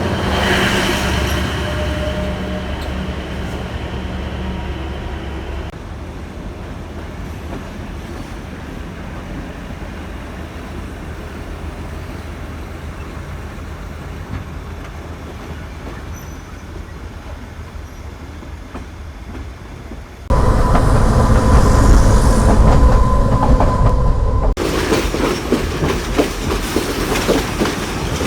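Trains running on the rails in several clips cut together: the sound changes suddenly about six seconds in, jumps much louder about twenty seconds in with a steady tone held for a few seconds, then changes again near the end.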